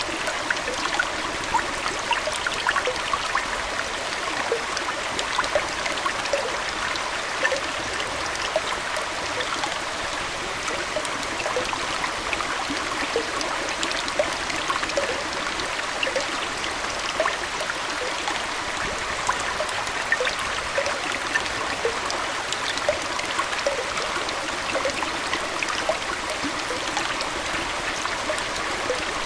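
Aquarium water flowing and trickling steadily, with many small plinks and bubbly drips scattered through it.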